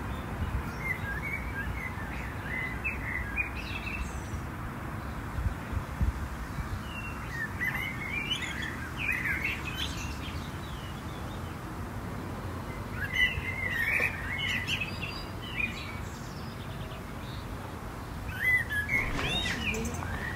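A small songbird singing in four short, twittering phrases a few seconds apart, over a steady low background rumble.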